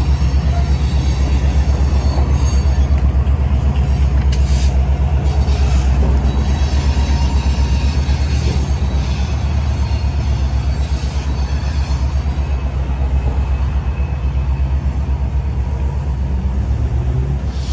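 Steady low rumble of a Canadian Pacific diesel freight train moving away along the tracks.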